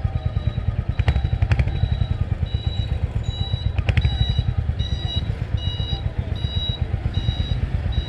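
Royal Enfield Hunter 350's single-cylinder engine thumping steadily at low road speed, heard from on the bike. A few sharp clicks come in the first half. From about two and a half seconds in, a high electronic beep repeats about every two-thirds of a second.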